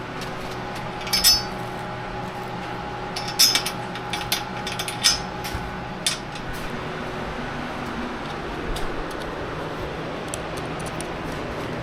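Scattered light clinks and clicks of small hardware and parts being handled, sharpest about a second in and again at about three and a half and five seconds, over a steady hum.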